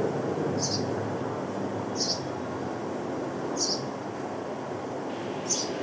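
Sparrow chirping: four short, high single chirps spaced about a second and a half apart, over a steady background noise.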